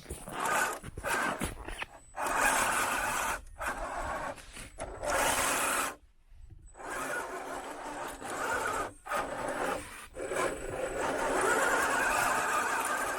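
Electric RC truck's motor and drivetrain running in bursts of throttle of a second or more, with short pauses between them, about a second in and again near 6 s and 9 s.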